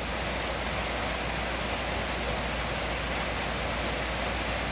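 Heavy rain falling steadily on a tin roof: a dense, even hiss with no single drops standing out.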